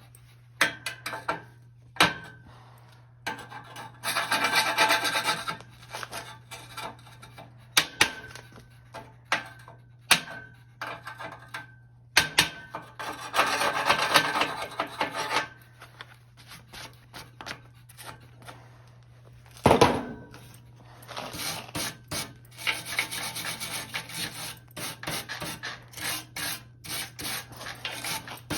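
Hand rubbing or rasping on wood: three spells of quick back-and-forth strokes, with scattered knocks and clicks of wood between them and a faint steady hum underneath.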